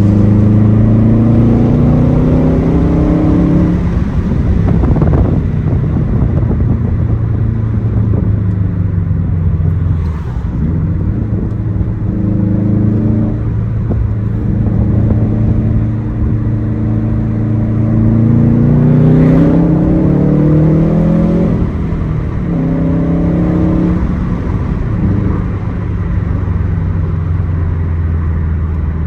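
2006 Subaru STI's turbocharged 2.5-litre flat-four running through a Tomei aftermarket exhaust under hard acceleration. The engine note climbs in pitch and drops at gear changes, about four seconds in and again around twenty-one seconds, then climbs once more.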